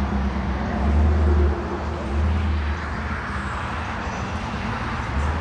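A car engine running close by, its low rumble swelling about a second in and again a second later.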